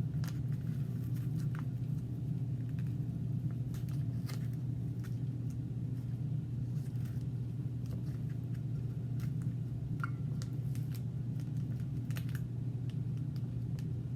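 Steady low mechanical hum, with faint scattered light clicks and taps.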